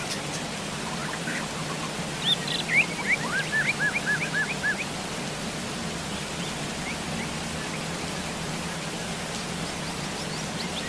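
Steady rain. A bird calls over it with a quick run of about six rising chirps a couple of seconds in, and a few fainter chirps come near the end.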